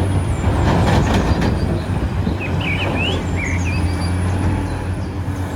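A steady low mechanical rumble, like a passing engine, over rustling noise, with a few faint knocks and some short high chirps about halfway through.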